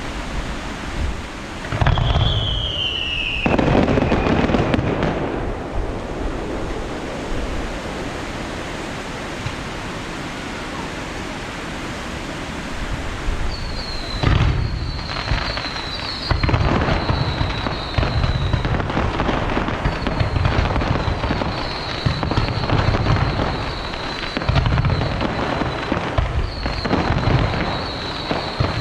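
Fireworks bursting with deep booms: a pair about two and four seconds in, then a steady run of them through the second half. A short falling whistle comes with the first burst, and a high wavering whistle runs under the later ones.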